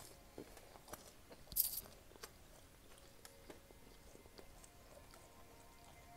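Close-up mouth sounds of chewing soft fried dough: faint wet clicks and smacks, with one louder smack about a second and a half in.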